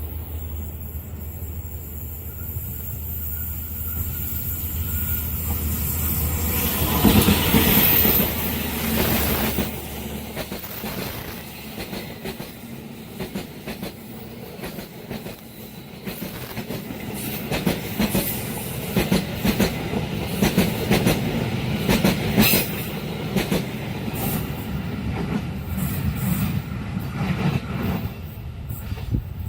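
A train passes at speed. The diesel locomotive's engine swells and goes by about seven or eight seconds in, then the carriages follow with a rapid clickety-clack of wheels over the rail joints.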